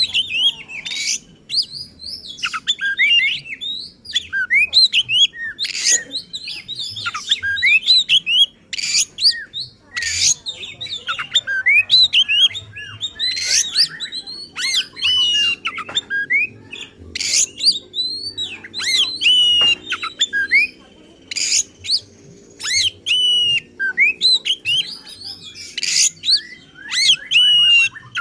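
Oriental magpie-robin (kacer) singing loud and non-stop: a rapid, varied run of whistled glides and chirps broken by harsh, rasping notes, with imitations of other birds' songs mixed in.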